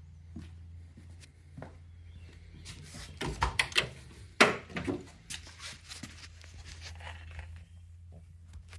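Scattered clicks and knocks over a faint low steady hum, busiest about three to five seconds in, with the loudest knock near the middle.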